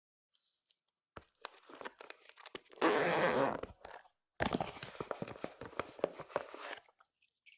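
Clear slime being squeezed and worked by hand, making rapid sticky crackling and popping clicks, with a thicker squishing stretch about three seconds in and a short pause near the middle.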